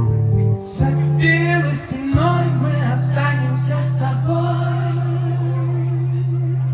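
Live acoustic music: acoustic guitar with a wordless sung vocal line, settling about two seconds in onto one long held low note as the song draws to its close.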